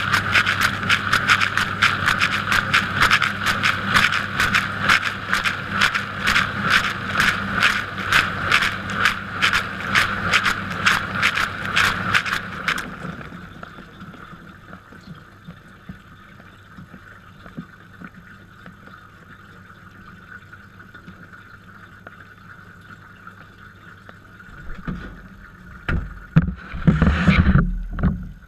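Dishwasher wash cycle heard from inside the tub: the circulation pump hums while water from the rotating spray arm lashes past in even pulses, about three a second. The spraying and pump cut off suddenly about 13 seconds in, leaving a faint hum, and a few loud low rumbles and surges come near the end.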